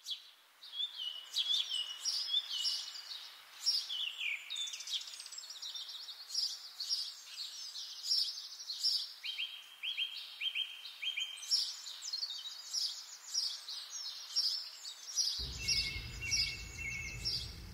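Birds chirping and twittering: many short, quick calls and trills overlapping throughout. A low rumble joins in about fifteen seconds in.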